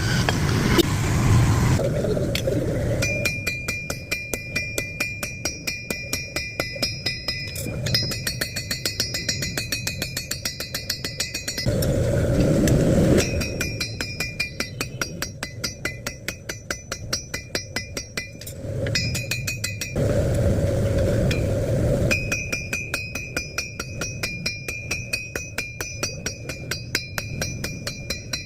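Hammer blows on the steel of a butcher's cleaver being forged on an anvil, in a quick steady rhythm of about three or four strikes a second. Each blow leaves a high metallic ring. The hammering breaks off a few times for a couple of seconds of rushing noise.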